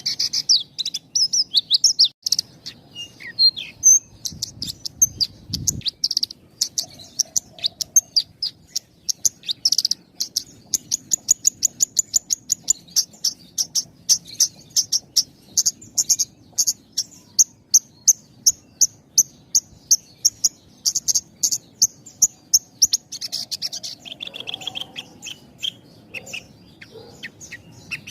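Javan bushlark (branjangan) singing a fast, unbroken string of short high chirps, about four or five a second, with only brief gaps between phrases; near the end the song drops to lower notes.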